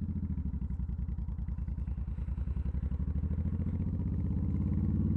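Motorcycle engine running steadily with an even, rapid pulsing beat, slowly getting a little louder.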